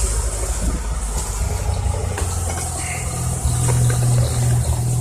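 Small four-cylinder car engine idling steadily shortly after a cold start in sub-zero cold.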